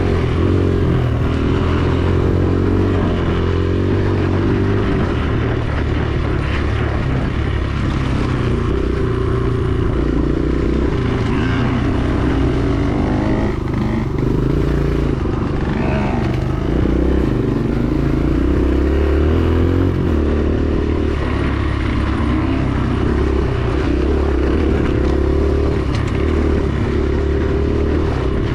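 Dirt bike engine running continuously while riding, its note wavering up and down with the throttle.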